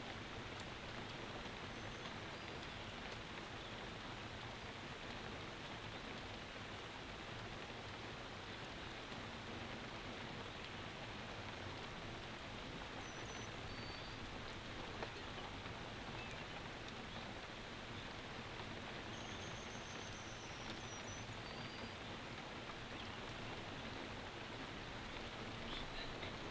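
Steady rain falling, heard from inside a hunting box blind: an even, unbroken hiss. A few faint, high, short chirps come through near the middle.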